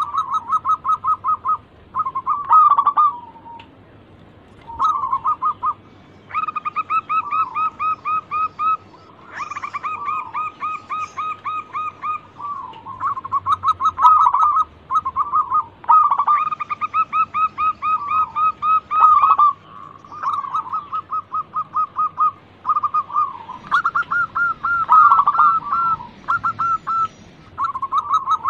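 Zebra doves (perkutut) cooing: phrases of rapid staccato notes, several a second, repeated one after another with short pauses between them.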